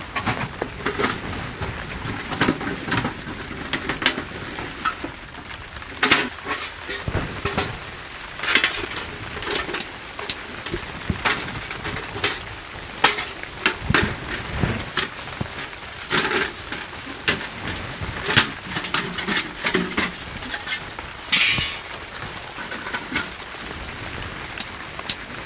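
Steady rain falling, with frequent close knocks, clicks and clatter of something being handled.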